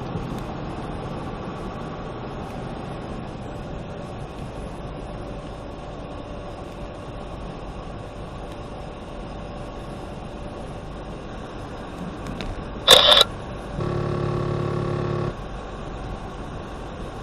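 Steady noise of a car being driven through a storm, heard inside the vehicle. About two-thirds of the way through comes a short, loud crack. Just after it, a steady pitched tone lasts about a second and a half.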